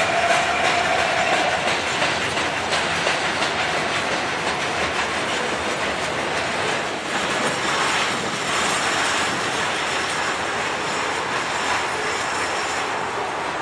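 Empty centerbeam flatcars of a long freight train rolling past, steady rumble and clatter of wheels over the rails, with a faint high wheel squeal in the second half.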